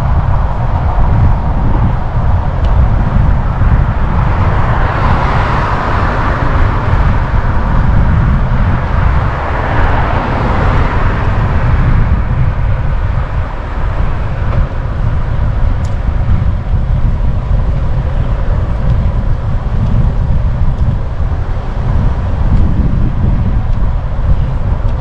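Wind rumbling on the microphone of a moving bicycle, with road traffic around it. Two louder swells, about 5 and 10 seconds in, as vehicles pass.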